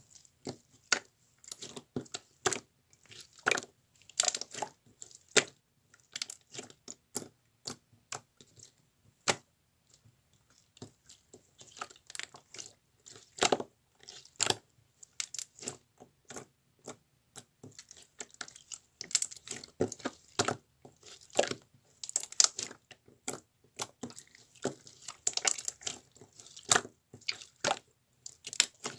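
Slime being squeezed and pressed by hand, giving a continuous run of irregular wet clicks and air-bubble pops.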